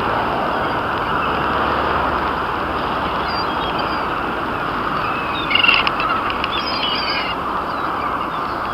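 Seagulls giving harsh calls in a flurry about halfway through, the loudest moment, with fainter calls before it, over a steady hum of city traffic.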